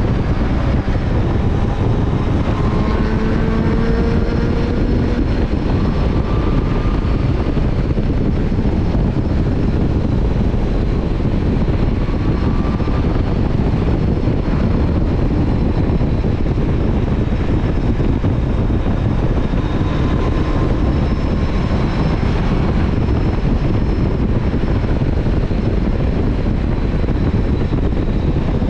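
Motorcycle on the move: a steady rush of wind and road noise over the engine. Now and then a faint rising engine note comes through, mostly in the first few seconds.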